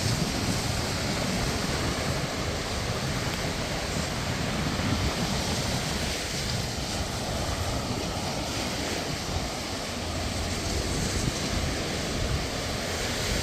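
Sea surf breaking and washing up on the beach in a steady wash of noise, with wind rumbling on the microphone.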